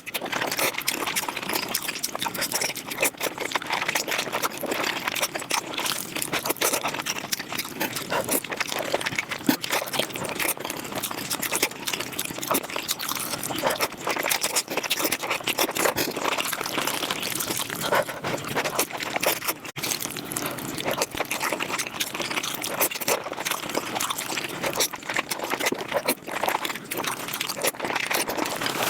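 Close-miked mukbang eating sounds sped up five times: chewing and mouth noises run together into a fast, dense chattering stream, broken by a short gap about twenty seconds in.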